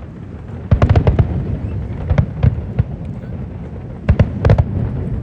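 Aerial fireworks bursting: a rapid cluster of sharp bangs about a second in, a few scattered ones midway and another quick cluster near the end, over a continuous low rumble.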